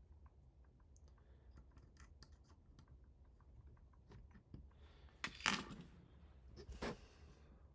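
Small plastic and metal parts being handled during assembly: scattered light clicks and taps, with two louder scraping sounds, one about five seconds in and one about seven seconds in.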